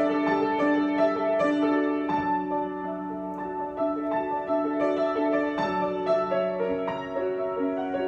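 Solo piano improvising slowly, with held low chords under a melody of single notes that change every half second or so.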